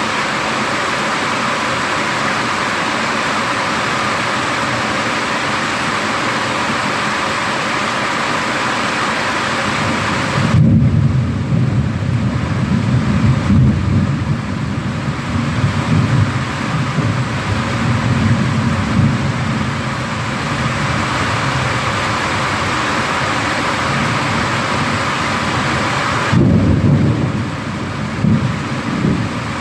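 Steady rain hissing, then about ten seconds in a long rolling thunder rumble that lasts around ten seconds, and a second rumble of thunder near the end.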